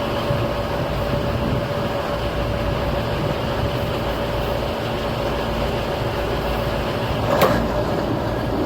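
Diesel tractor engines running steadily under load while towing, with a steady whine over the engine noise and a single short knock near the end.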